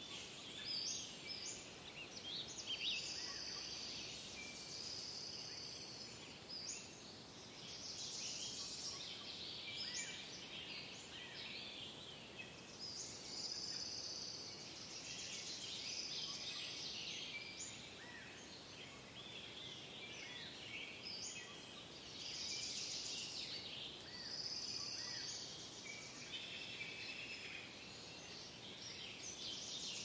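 Forest ambience: several birds singing and calling, overlapping and near-continuous, with short high repeated phrases. Beneath them is a faint steady background hiss.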